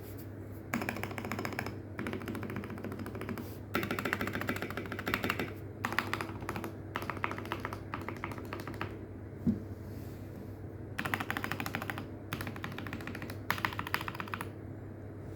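Typing on a Keychron C2 mechanical keyboard with Gateron Brown tactile switches, dampened with foam, tape and an acoustic case mat and fitted with thick PBT keycaps: fast runs of soft key clacks in bursts of a second or two with short pauses between, over a steady low hum from the phone microphone.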